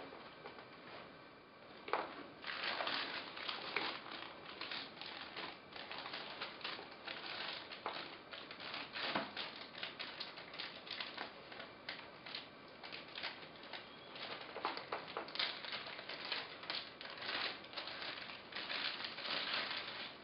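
Microphone box and packaging being handled and opened: irregular crinkling and rustling with light clicks and knocks.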